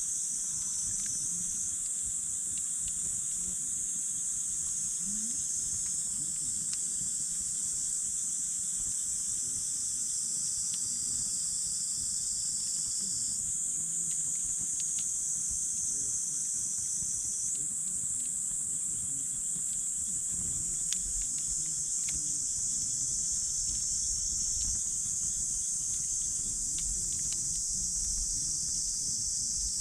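Steady high-pitched chorus of insects dominating, with a few faint crackles and pops from a wood campfire scattered through it and a low rumble underneath.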